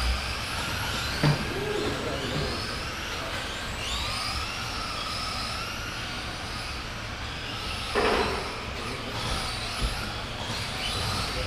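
Several radio-controlled spec trucks' electric motors whining, the pitch of each sliding up and down as they accelerate and slow around the track, over a steady bed of track noise. A sharp hit comes about eight seconds in.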